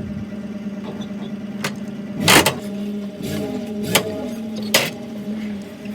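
A vehicle engine running steadily, with several loud metallic clanks and two brief swoops in engine pitch between about two and five seconds in.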